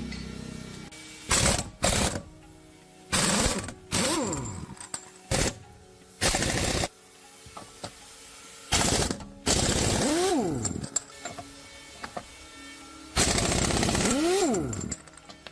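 A power tool run in short bursts, about seven times, each a loud rattling burst of under a second or so, with quieter gaps between them. After some bursts there is a whine that rises and then falls.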